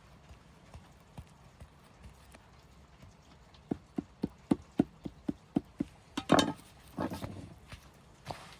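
A quick run of about nine sharp knocks, roughly four a second, followed by two louder, longer noises near the end.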